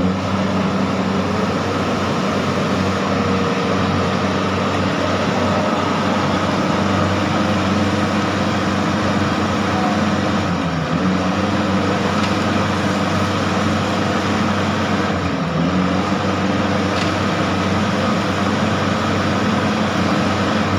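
A motor vehicle engine held at high, steady revs under load, its pitch dipping briefly twice, around ten and fifteen seconds in.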